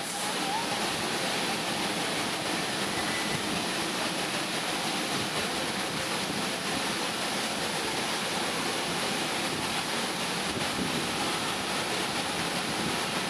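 Steady rushing hiss of automatic car wash machinery working over the car, even throughout.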